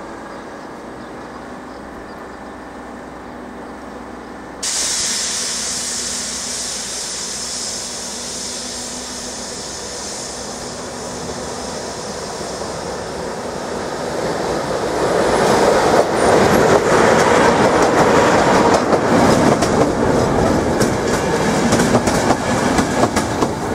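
Slovak class 350 electric locomotive hauling a passenger train into a station. The train grows louder as it draws near. From about two-thirds of the way in, the coaches roll past close by with rapid wheel clicks over the rail joints.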